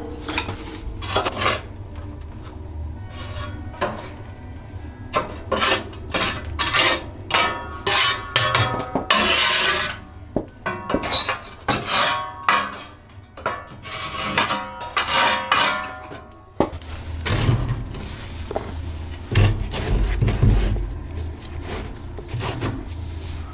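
Metal tools and wood being handled: an irregular series of sharp metallic clinks, some ringing briefly, and knocks, with duller low thuds in the last few seconds.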